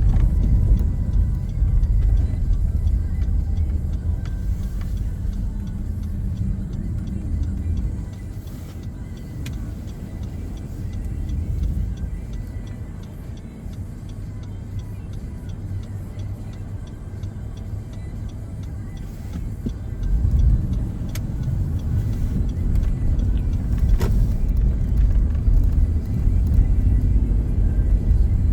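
Car driving, a low rumble of road and engine noise that eases off about a third of the way in and swells again about two-thirds of the way through.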